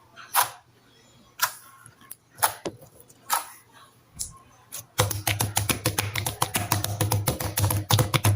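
Jelly-textured slime being handled: single sticky clicks about once a second, then, about five seconds in, a fast run of crackling clicks as it is squeezed.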